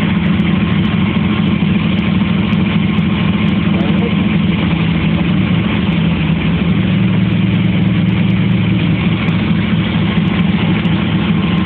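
1985 Pontiac Firebird Trans Am's 305 small-block V8 idling steadily while the car is backed up in reverse.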